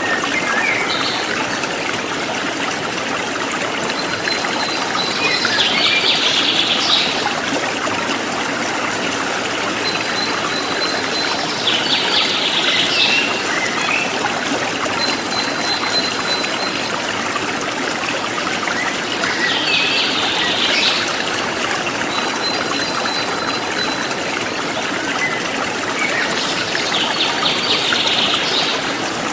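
A forest stream flowing steadily. Over it a songbird repeats the same high phrase four times, about every seven seconds: a thin held whistle, then a quick run of notes.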